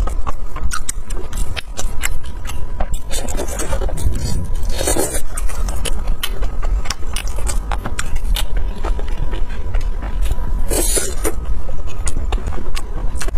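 Close-miked chewing and mouth sounds of someone eating: a dense run of small wet clicks and crackles over a steady low rumble, with a few louder noisy bursts about five seconds in and again near eleven seconds.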